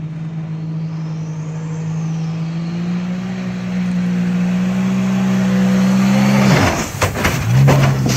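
An engine running steadily, its pitch creeping up slowly, then cut across about six and a half seconds in by a sudden burst of noise and knocks before the engine is heard again.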